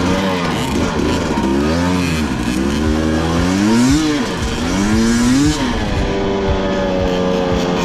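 Two-stroke dirt bike engine revving, its pitch rising and falling several times, then running at a steady pitch for the last couple of seconds.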